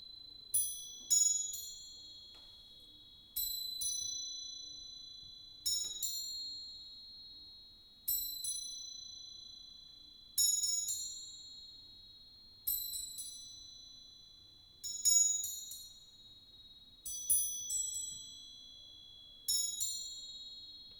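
Crotales (antique cymbals) in a percussion piece: small groups of two or three high, bell-like strokes about every two and a half seconds, each ringing on and slowly fading before the next group.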